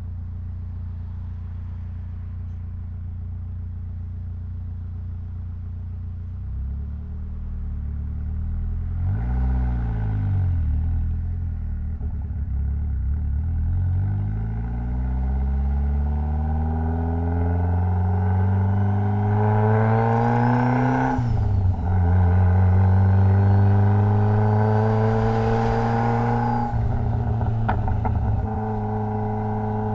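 Mitsubishi Lancer Evolution X's 2.0-litre turbocharged four-cylinder engine running low and steady, then briefly revving up and down about ten seconds in. It then accelerates, the pitch climbing, drops sharply at a gear change a little past twenty seconds, and climbs again. Near the end it eases off with a short rattle and settles to a steady run.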